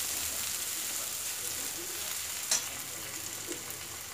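Onion and spices sizzling in hot oil in a metal kadai while a spatula stirs them, with one sharp tap about two and a half seconds in.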